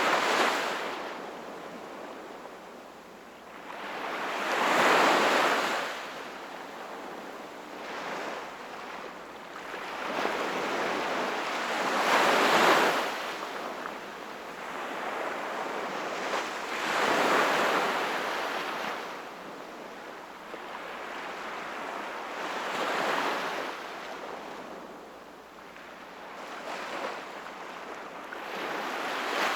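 Sea waves breaking and washing onto the shore, each wave swelling to a rushing surge and then fading, one every five or six seconds.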